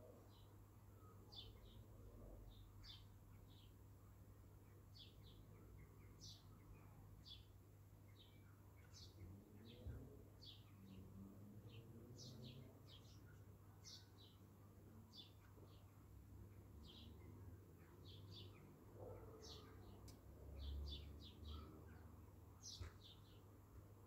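Small birds chirping faintly: short high chirps, one or two a second, over a low steady background hum.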